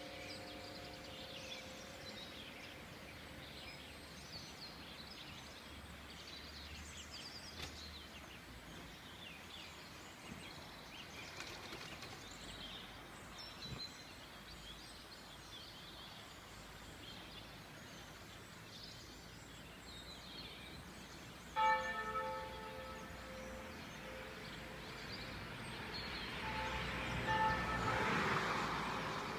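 Church bell ringing out: its hum fades over the first few seconds while small birds chirp. About two-thirds of the way through the bell is struck again, the loudest sound, and it rings on. Near the end a swell of rushing noise rises under further bell tones.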